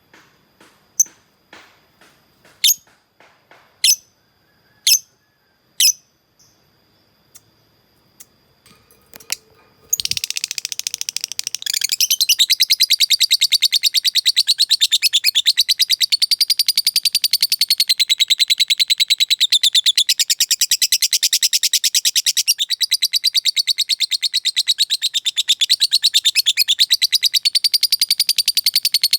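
Lovebird chirping a few separate, sharp notes about a second apart, then, about ten seconds in, breaking into ngekek: a long, unbroken, very rapid chattering trill.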